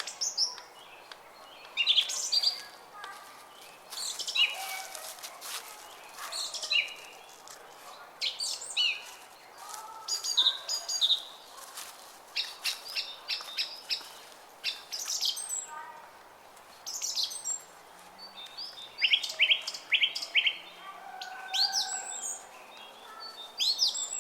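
Small songbirds singing in bursts of quick high chirps and short rapid trills, a new phrase every second or two, over a faint steady rush of running water from a brook.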